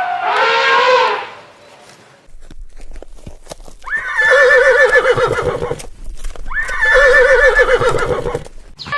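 Horse neighing twice, each whinny leaping up sharply and then shaking, about two seconds long, the first about four seconds in and the second about two and a half seconds later. Before them, a long pitched call tails off in the first second, followed by a few sharp clicks.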